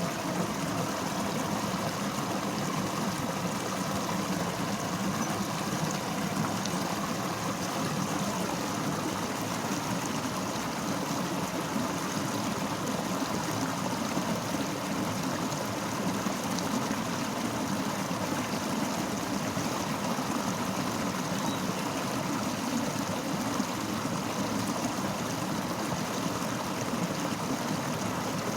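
Fast-flowing river rushing over rocks, a steady, even water noise without a break.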